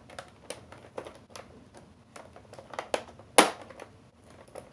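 Irregular clicks and snips of a toy's packaging being cut and worked open by hand, with one louder click about three and a half seconds in.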